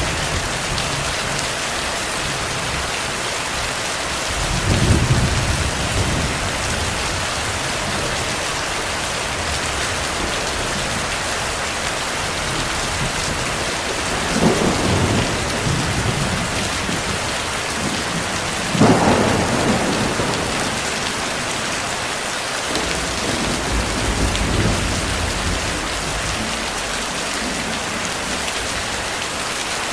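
Heavy rain falling in a steady hiss, with distant thunder rumbling low several times.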